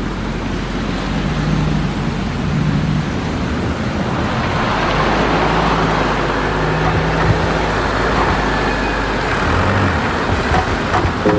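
Steady road traffic noise, an even rush of passing vehicles.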